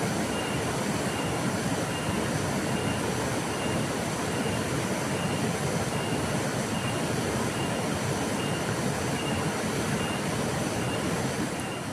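Steady rushing of a flowing river, an even wash of water noise with no breaks. A faint high tone pulses through it about twice a second.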